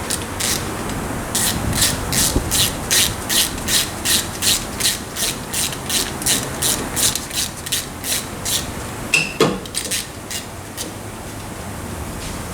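Quick back-and-forth scraping strokes on metal, about three a second for some seven seconds, then a sharp metallic clink.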